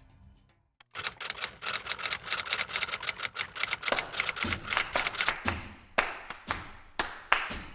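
Typewriter key sound effect: a fast run of clacks, slowing after about five seconds to separate, louder strikes, as on-screen text types itself out. Background music fades out just before.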